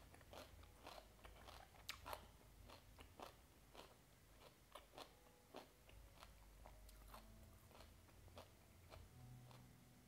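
Close-miked chewing of a mouthful of raw beef and banana flower salad: a run of short crisp crunches, about three a second, loudest about two seconds in.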